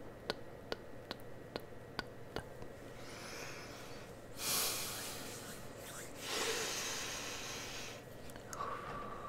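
A run of soft, evenly spaced clicks, about two and a half a second, then two hissing bursts of air, and a thin steady whistle-like tone near the end, as close-miked ASMR trigger sounds.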